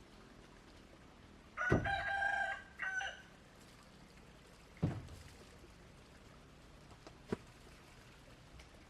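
A rooster crowing once, about two seconds in: one long pitched call with a short final note. This is followed by two dull knocks a few seconds apart.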